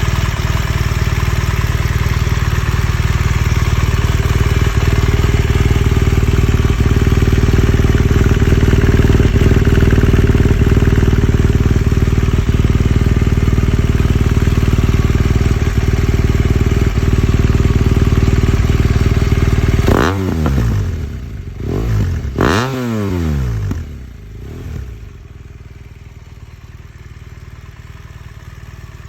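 BMW R1200RS boxer-twin engine running through an aftermarket exhaust, loud and steady for about twenty seconds, then revved twice in quick succession with the pitch rising and falling, after which it settles much quieter.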